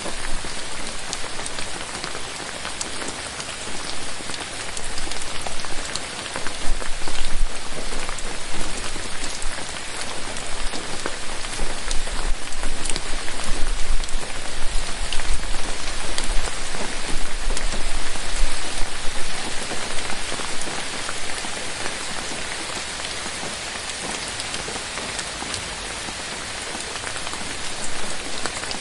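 Steady rain falling on forest foliage, a dense patter of many drops that swells and eases a little over the span, with individual drops ticking on leaves.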